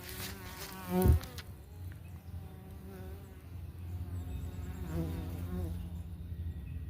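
Italian honey bees buzzing around the hive, a steady hum with the wavering pitch of single bees flying close past the microphone. A short thump about a second in is the loudest sound.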